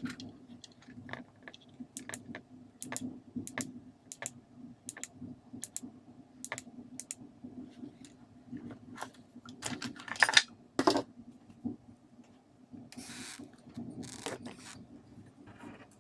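Small hard clicks and taps of parts being handled during a repair, scattered and irregular, with a louder clatter about ten seconds in and short scraping or rustling sounds near the end, over a faint steady hum.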